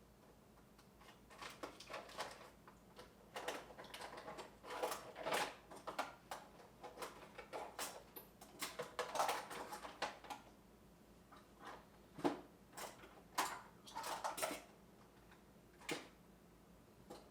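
Metal hand tools (wrenches, screwdrivers, pry bars) clinking and clattering irregularly as they are picked up, sorted and set down on a hard surface.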